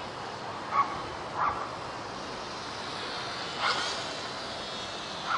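Small electric motor and propeller of a WLToys F949 Cessna-182 RC plane running steadily in flight. It is heard as a thin, steady buzz with a faint hiss. Three short, sharp sounds stand out over it: two about a second and two seconds in, and one near the middle.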